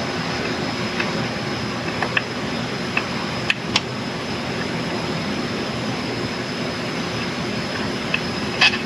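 A steady machine-like drone in the workshop, with scattered sharp clicks and clinks of metal parts and tools being handled: a few about one to four seconds in and one near the end.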